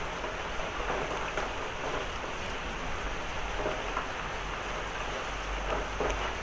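Heavy rain and hail pouring down steadily, with scattered sharp ticks of hailstones striking.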